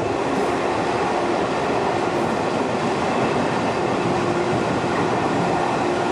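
Indian Railways express passenger train running along the track, a steady rumble and rattle of the moving coaches, with a faint on-and-off tone.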